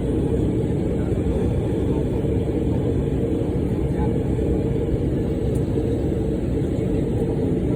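Steady low rumble inside the cabin of an Embraer E175 airliner on the ground after landing, even and unchanging throughout.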